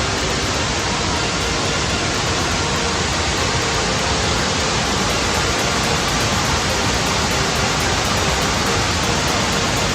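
Water rushing over Kuang Si waterfall, a steady even noise with no breaks.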